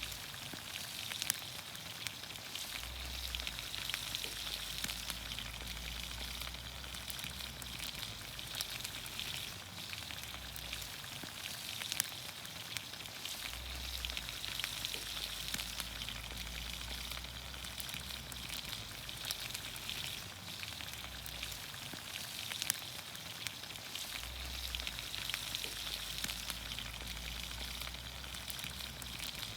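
Green beans, onions, carrots and potatoes sizzling steadily in olive oil in a pan over a campfire, with scattered sharp crackles.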